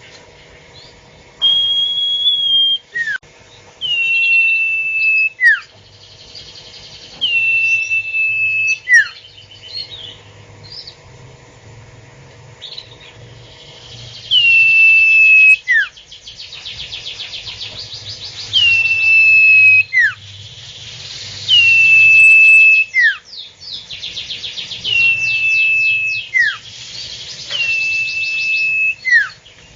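A bird called 'sirtu' in Indonesian repeats a loud whistled call about nine times, with a longer pause around the middle. Each call is a long, high, steady note followed by a short, sharply falling note.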